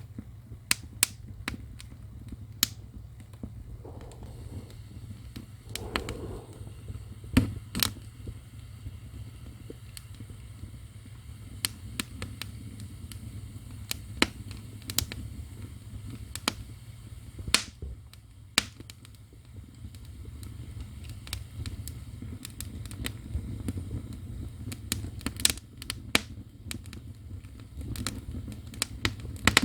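Firewood burning in an ondol firebox (agungi): irregular sharp crackles and pops over a low, steady rumble of the fire.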